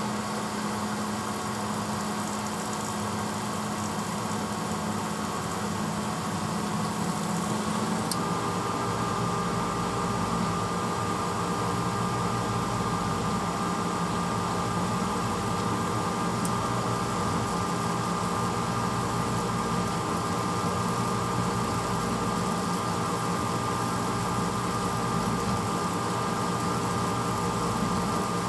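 1986 Hotpoint Potwasher dishwasher running mid-cycle: a steady motor hum with water noise. About eight seconds in, a click and a change to a different, slightly louder hum, as the machine's motor or pump changes.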